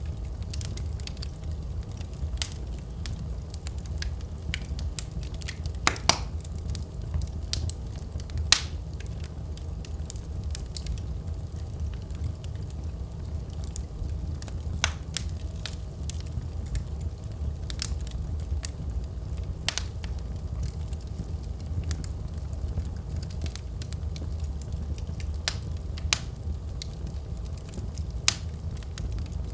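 Wood fire burning in a fireplace: a steady low rumble of flames with sharp crackles and pops at irregular intervals, the loudest two about 6 and 8.5 seconds in.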